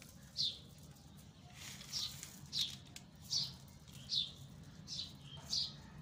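A small bird chirping over and over: about eight short, high chirps, each dropping in pitch, at a fairly even pace.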